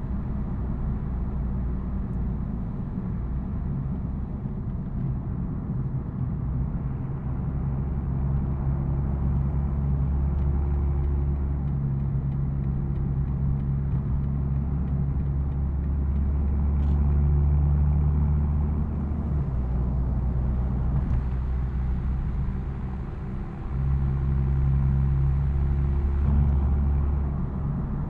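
BMW M240i xDrive's B58 turbocharged 3.0-litre inline-six exhaust, picked up by an external microphone, running at steady low revs while cruising. It swells louder a couple of times with throttle and dips briefly about three-quarters of the way through.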